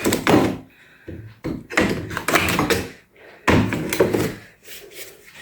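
A wall panel being levered off with a pry bar, giving several knocks, thuds and cracking bursts as a firmly held corner is forced loose.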